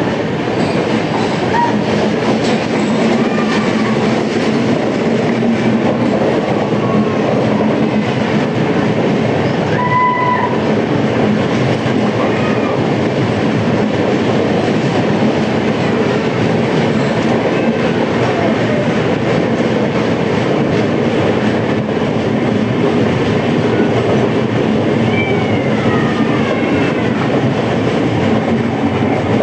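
Passenger express train running along the track, a loud steady rumble of wheels on rail, with a few short high-pitched squeals here and there.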